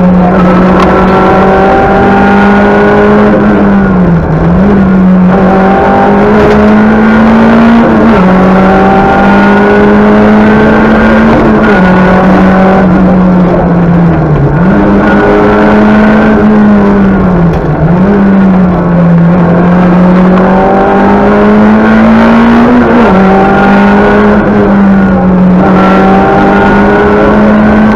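Talbot Samba Group B rally car's engine running hard and loud at high revs, heard from inside the cabin, its pitch climbing slowly and dropping back briefly several times as the car is driven flat out along the stage.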